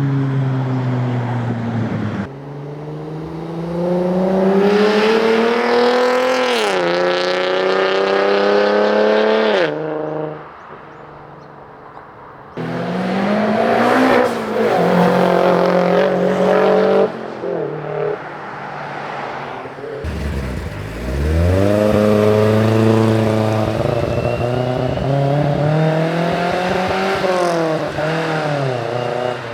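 Modified Japanese performance cars accelerating hard away in a run of separate clips. The engines rev up with a rising pitch, drop sharply at each gear change, then climb again, with a quieter stretch about a third of the way through.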